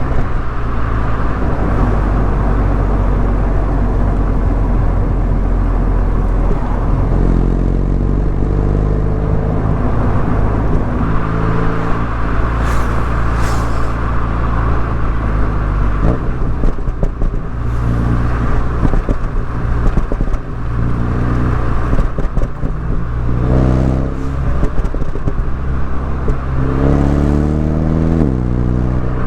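MINI Cooper S engine and exhaust under way, pulling up through the revs and dropping back at gear changes several times, the clearest climb and drop near the end, over steady road and wind noise.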